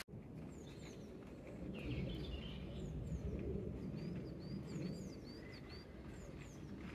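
Small songbirds singing, a string of short, high chirps, over a steady low outdoor rumble.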